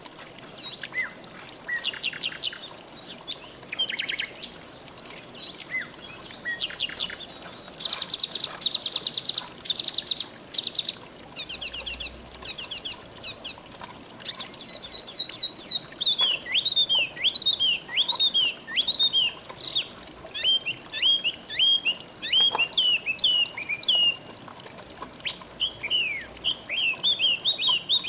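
Songbirds singing over faint, steady flowing water: quick chirps and rapid trills in the first half, then a long run of sharp, downward-sliding whistled notes in the second half.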